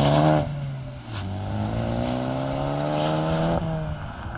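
Ford Focus ST engine, breathing through a Focus RS air box and Green Filter, pulling hard. Its pitch climbs steadily and drops sharply twice, about half a second in and again near the end, the way it does at gear changes.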